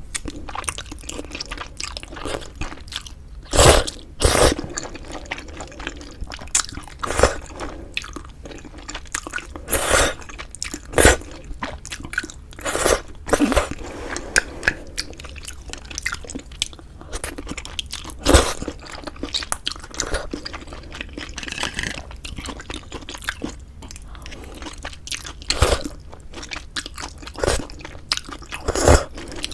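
Close-miked eating sounds from a meal of Korean pork bone soup with glass noodles: wet chewing with frequent irregular sharp mouth clicks and crunches, a few of them louder.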